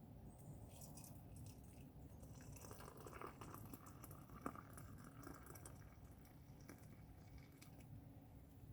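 Near silence with faint, scattered small clicks and crackles, and one sharper click about four and a half seconds in.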